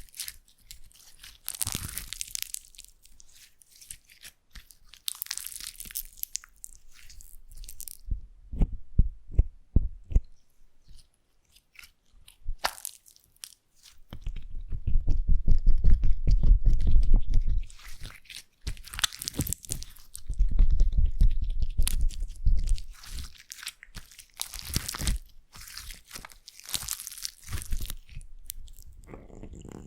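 Slime being squished and handled close to the microphone, giving crunchy crackling and clicking sounds. Two heavier, louder stretches of squishing come in the second half.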